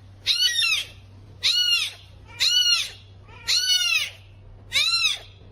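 Cat meowing repeatedly: five high-pitched meows, each rising then falling, about one a second.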